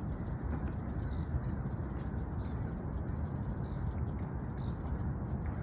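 Faint, short bird chirps repeating every half second or so over a steady low rumble.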